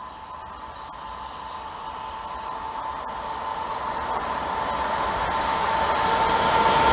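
Train approaching on the line, a hiss with a steady high tone that grows steadily louder as it nears.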